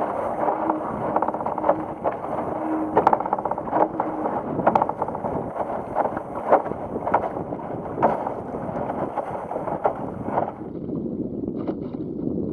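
Water rushing and splashing against a Laser dinghy's hull in heavy wind, with wind buffeting the microphone and a string of sharp irregular slaps. Near the end the high hiss drops away and a lower rush remains.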